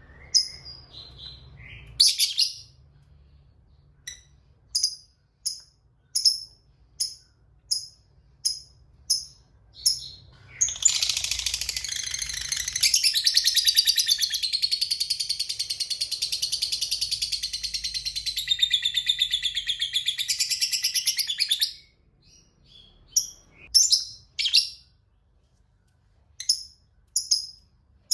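Lovebird calling: short sharp chirps about one or two a second, then a long, rapid chattering trill (the 'ngekek') lasting about eleven seconds, then more chirps near the end.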